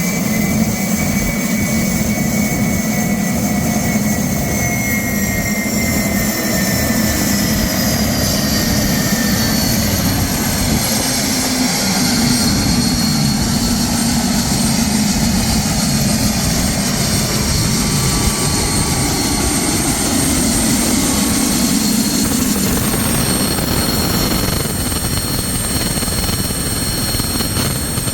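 Homemade helicopter's GTD-350 turboshaft engine and rotor running, a high turbine whine over a steady low drone. The whine slides down in pitch over the first several seconds, then holds steady.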